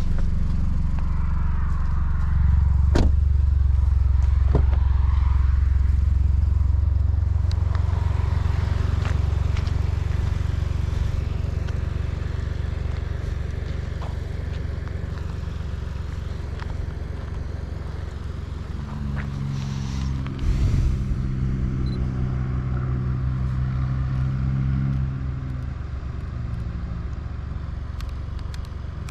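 Seat Ibiza FR's 1.0 TSI three-cylinder turbo engine with a Friedrich sport exhaust, running steadily at low revs, with a few sharp clicks and a short knock about two-thirds of the way through.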